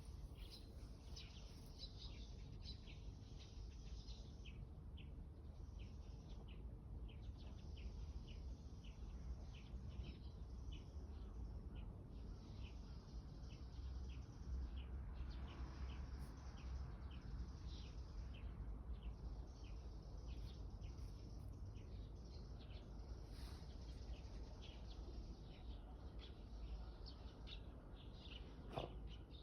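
Faint bird chirping: many short, repeated chirps over a low, steady rumble.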